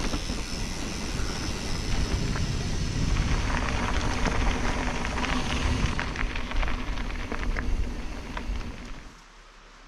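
Rumbling wind noise on the microphone over a dense crackle of small ticks and clicks; it drops away sharply about nine seconds in.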